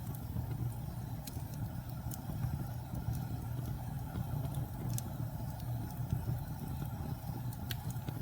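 Fireplace fire burning with a steady low rumble, with a few sharp crackles and pops scattered through it.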